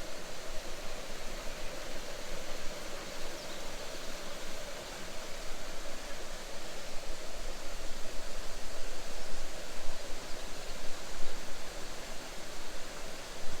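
Outdoor ambience: a steady rushing noise with a fluttering level and no distinct events, such as running water or wind through trees makes.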